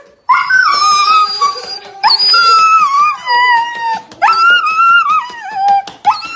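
Husky puppy howling: four long, high calls, each rising sharply at its start and then sliding down in pitch.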